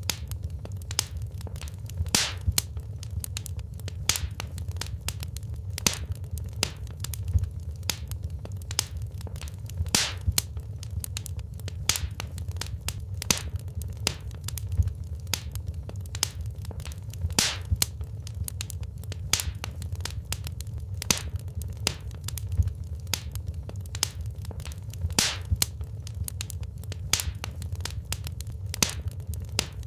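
Wood fire burning in a fireplace: a low steady rumble of the flames with frequent irregular crackles and sharp pops from the burning logs.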